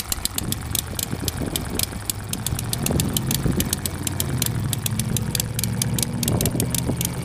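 A small hand-built model internal-combustion engine running steadily at a fixed speed, with a fast, steady clatter of clicks over its hum. It has no timing advance and is set to hold one speed.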